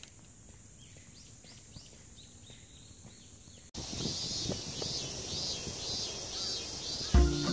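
Repeated high chirping, about two chirps a second, over outdoor background noise. It jumps suddenly louder at an abrupt cut about halfway through. Music with deep bass notes starts near the end.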